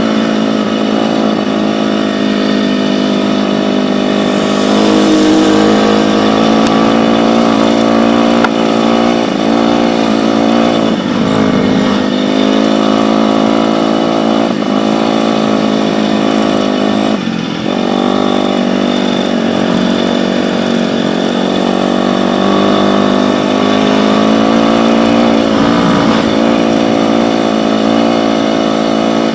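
Dirt bike engine running loud and steady under throttle, its pitch dipping briefly a few times, about halfway through, again a few seconds later and near the end.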